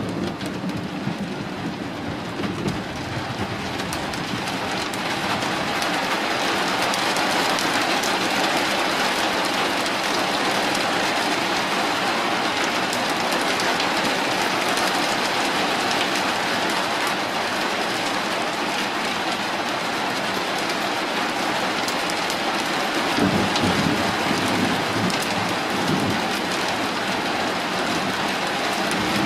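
Heavy rain pouring steadily, building over the first few seconds into a dense roar, with a low rumble of thunder about 23 seconds in.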